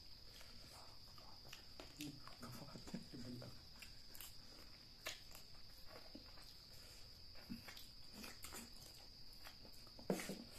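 Faint chewing and mouth sounds of people eating boiled pumpkin and chicken feet by hand, with scattered small clicks and a louder bite about ten seconds in. A steady high-pitched insect drone, like crickets, sits under it.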